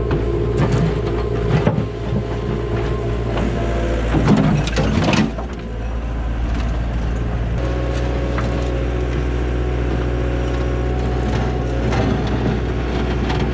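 Heavy equipment engine running steadily, with irregular knocks and crunching of broken concrete and stone, loudest about four to five seconds in. The engine note shifts about seven and a half seconds in.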